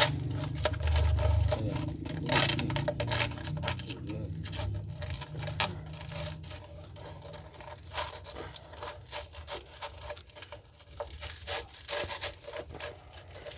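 Sandpaper rubbing and scraping against a metal engine part in irregular strokes, with a low motor hum that fades out about six seconds in.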